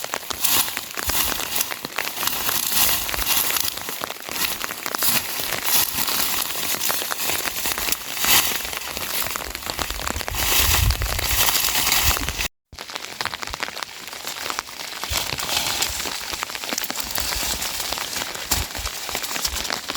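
Rain falling and pattering on surfaces: a dense hiss of drops with many small sharp hits, a brief low rumble about halfway through, and a momentary dropout about two-thirds of the way through.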